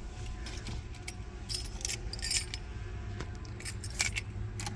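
A bunch of car keys jangling in a few short bursts with light clicks as the key is handled at the ignition, over a low steady hum.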